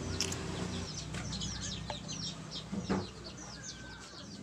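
Birds chirping over and over in short, high, falling notes. A low hum stops about a second in, and there is a single knock near three seconds.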